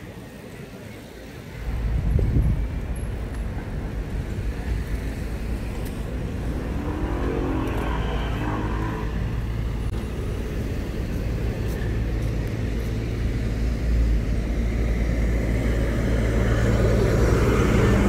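Street traffic: a motor vehicle's engine running close by, a steady low drone that starts suddenly about a second and a half in and grows louder toward the end.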